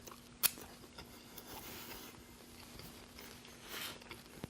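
Quiet close-mic chewing of a Burger King burger, with a sharp mouth click about half a second in.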